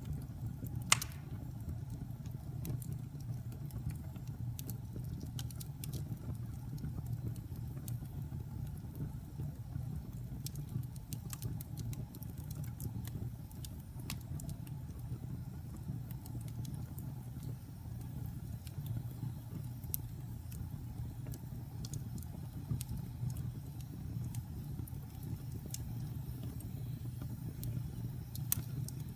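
Wood fire burning in a fireplace: a steady low roar of flames with scattered sharp crackles, and one loud pop about a second in.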